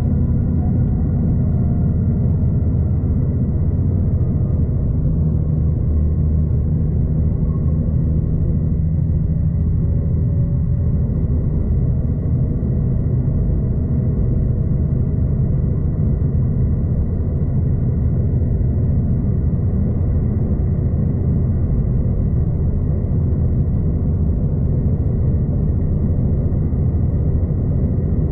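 V/Line passenger train running at speed, a steady low rumble heard from inside the carriage, with a faint steady high tone above it.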